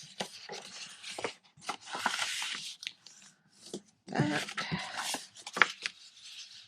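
Scored patterned paper being folded along its score lines and the folds burnished: dry rubbing and scraping of paper with crisp crinkles and clicks, heaviest about four to five seconds in.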